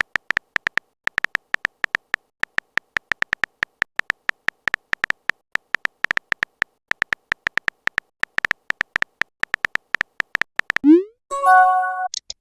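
Phone keyboard typing sound effect: rapid, irregular short high-pitched click-blips, like a messaging app's key taps. About eleven seconds in, a quick rising whoosh, then a short message-notification chime.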